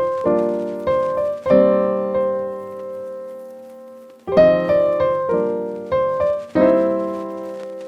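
Background music: piano chords struck one after another and left to ring. About one and a half seconds in, a long chord fades slowly, and a new run of chords begins a little after four seconds.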